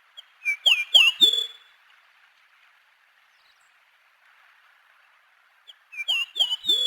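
A songbird singing a short phrase of about four quick whistled notes that fall in pitch, then repeating it about five seconds later.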